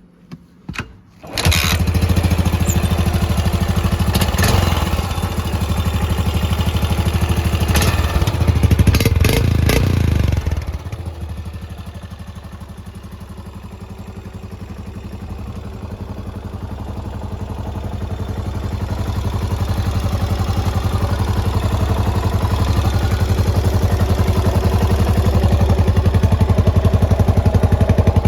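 Yamaha SR400's air-cooled single-cylinder engine starting about a second in, then running at a raised speed for about ten seconds. It then drops to a lower idle that slowly picks up again.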